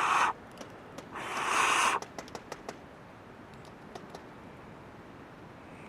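A person blowing out twice, a short blow at the start and a longer one about a second in, followed by several light ticks.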